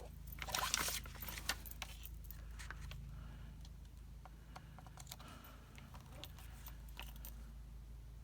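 Cardstock being handled and glued, with a brief burst of scratchy rustling in the first second and a half, then scattered soft ticks and taps over a steady low hum.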